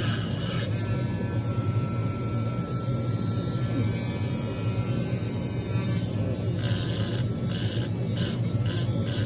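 Steady buzzing drone of a running motor. A few short, intermittent sounds come over it in the last few seconds.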